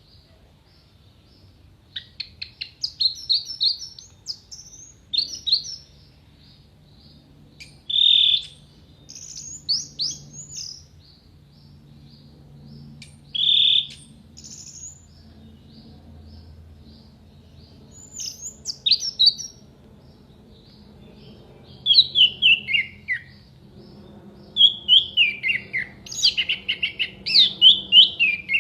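Orange-headed thrush (anis merah) singing in short bursts of varied, quickly changing whistled phrases and sharp notes, a second or two apart. Near the end the phrases turn into falling runs of rapid notes.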